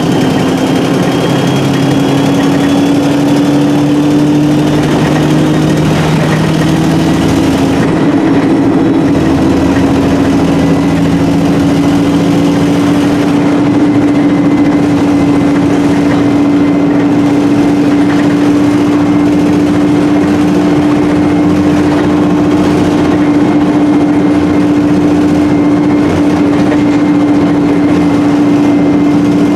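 Alexander Dennis Enviro300 bus on an ADL E30D chassis with a Voith four-speed gearbox, heard on board: its diesel engine and driveline drone loudly at a steady pitch throughout, with a faint higher whine above. The exhaust is blown.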